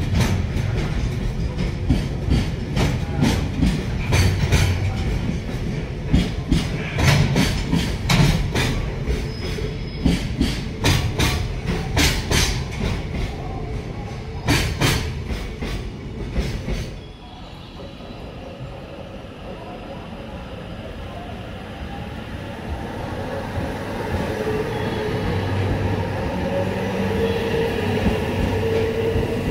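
A long JR Freight container train passes, its wheels clicking rhythmically over the rail joints above a low rumble; the clicking cuts off about 17 seconds in as the last wagon clears. An arriving limited-express electric train then approaches, growing louder with a thin, high wheel-and-brake squeal toward the end.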